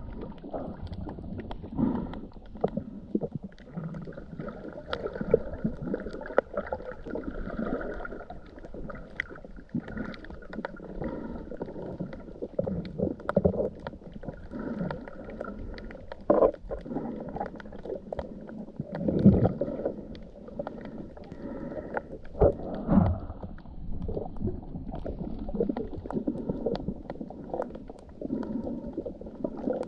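Muffled water movement: irregular gurgling and sloshing with occasional dull thumps, the loudest a little before the middle and again a few seconds later.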